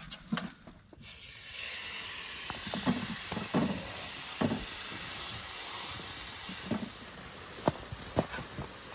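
Food frying in a pan: a steady sizzle that sets in about a second in, after a few utensil clicks, with occasional clicks and scrapes of a utensil against the pan.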